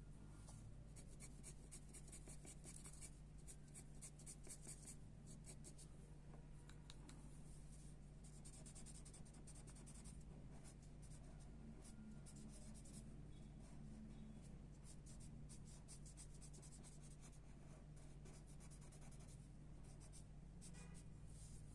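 Faint pencil strokes scratching on paper, in runs of quick repeated short strokes with brief pauses between them, over a low steady hum.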